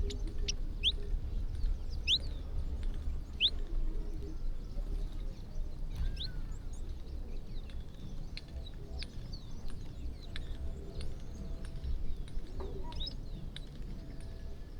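Small birds chirping in short, sharp notes, most often in the first few seconds, with scattered light clicks over a low, steady rumble.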